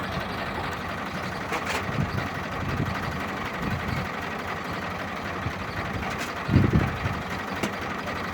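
Fiat 480 tractor's diesel engine running steadily at low revs, with a louder low thump about six and a half seconds in.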